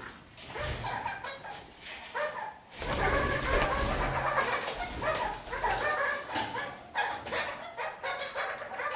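Red-crowned kakariki parakeets calling, a dense run of short harsh calls that grows louder from about three seconds in.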